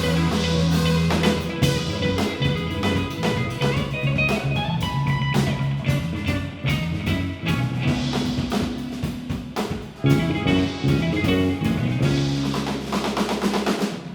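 Live rock band playing an instrumental passage: guitar over a drum kit, with held low notes underneath and steady drum hits, in a bluesy, psychedelic rock style.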